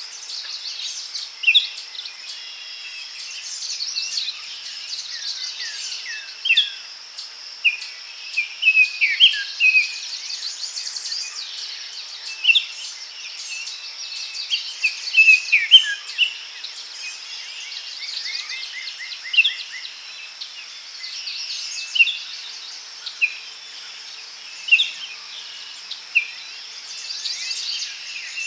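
Daytime forest ambience: several birds singing and calling in short sharp chirps and trills, over a steady high insect hum.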